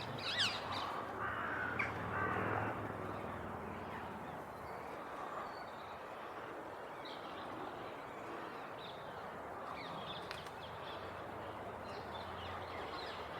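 A few harsh bird calls in the first three seconds, then a steady outdoor background hum with only faint scattered sounds.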